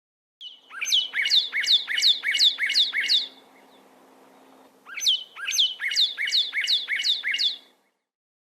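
Northern cardinal singing: two phrases of rapidly repeated down-slurred whistles, about three or four notes a second, with a short pause between the phrases.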